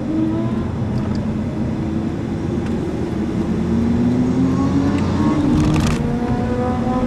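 Audi A4 TDI 170's four-cylinder turbodiesel heard from inside the cabin, accelerating hard out of a corner, its pitch rising steadily. About six seconds in it drops at an upshift, then rises again.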